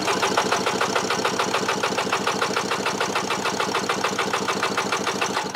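1997 Kawasaki STX 1100's three-cylinder two-stroke engine turning over on the electric starter, plugs out, with a compression gauge on the PTO-side cylinder: a fast, even pulsing that starts suddenly and cuts off at the end. The gauge reads 117 psi, healthy compression for that cylinder.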